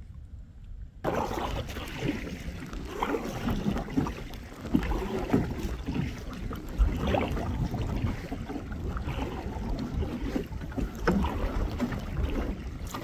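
Wind buffeting the microphone while a kayak is paddled on the water, with irregular splashes and knocks. It starts suddenly about a second in.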